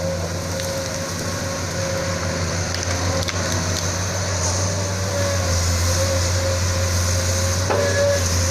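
Sunward SWE210 excavator's Isuzu 6BG1 six-cylinder diesel engine running steadily, with a steady whine above the engine note and a few faint clicks, getting a little louder about halfway through.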